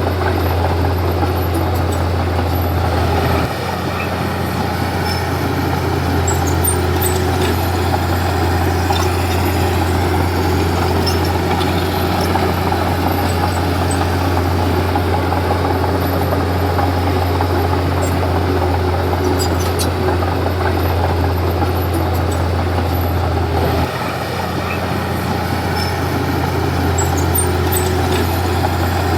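Komatsu D31P bulldozer's diesel engine running steadily with a deep hum. The engine dips suddenly about three and a half seconds in and again near the end, then builds back up.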